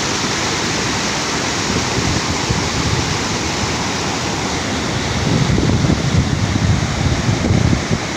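Steady rushing of a waterfall, with low, gusty wind buffeting on the microphone from about five seconds in.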